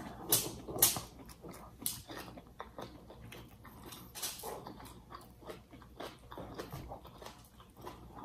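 Close-up eating sounds: chewing and lip smacks on baked fish and bok choy, a string of short clicks with a few louder ones in the first two seconds.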